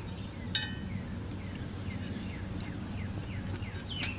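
A single metal clink with a short ring about half a second in, as the steel parts of a flexplate locking tool are handled. After it come faint short downward bird chirps over a steady low hum.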